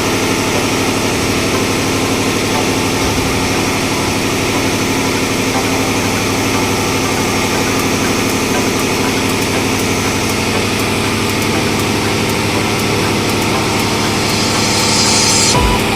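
Tugboat engine-room machinery running steadily, a constant engine hum at an even level. A brief hiss rises over it near the end.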